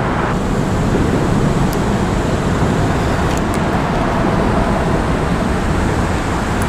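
Steady, dense traffic noise from a very busy road overpass overhead: many cars passing continuously.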